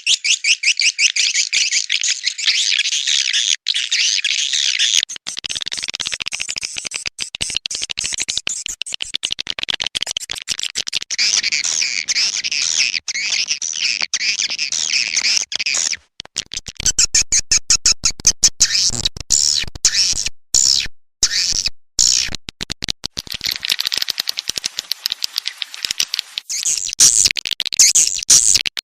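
Edible-nest swiftlets chirping and twittering in a dense, rapid chorus of high calls laced with fast clicks. This is a swiftlet-house lure call, the recording played to draw swiftlets in to roost and nest.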